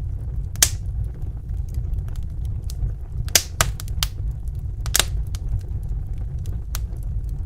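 Crackling wood fire in a fireplace: scattered sharp pops, the loudest about half a second in and again about five seconds in, over a steady low rumble of the burning fire.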